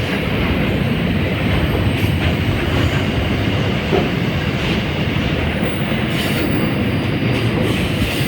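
Freight train wagons rolling past close by: a steady rumble of steel wheels on the rails, with occasional clicks as the wheels cross rail joints.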